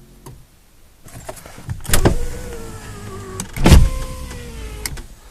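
Ignition key turned to on twice to prime a 1993 Honda Accord's fuel system: each time a sharp click, then the electric fuel pump whining steadily and slowly sagging in pitch for about a second and a half. The engine is not cranked yet.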